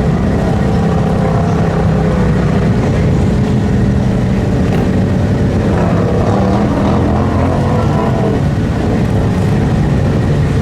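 Mud truck engine running loud and steady, its pitch wavering a little as the throttle changes.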